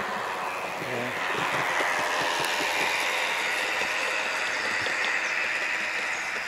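Light railway train running, a steady rushing noise that swells about a second in.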